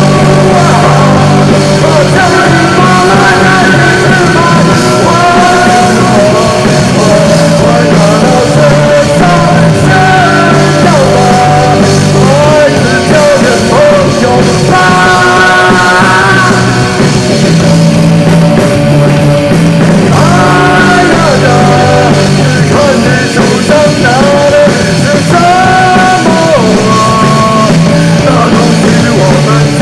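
Rock band playing loudly and without a break: drums, bass and guitars, with a melody line bending in pitch above them.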